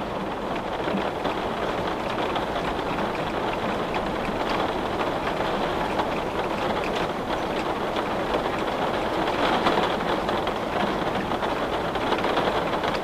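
Steady rain falling on a window, an even hiss with the patter of individual drops, swelling slightly about three-quarters of the way through.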